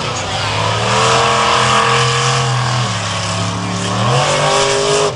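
Monster truck engine revving hard, its pitch climbing early on, dropping about three seconds in, then climbing again about a second later.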